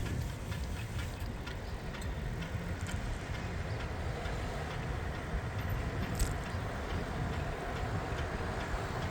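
Riding a bicycle: a steady low rumble of wind on the microphone and tyre noise, with light ticking and a few sharp clicks.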